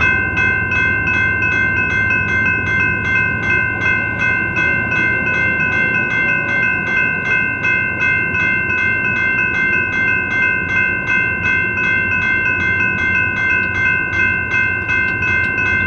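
Railroad grade-crossing warning bell ringing with rapid, even strikes, about three a second, as a train approaches, over a low rumble.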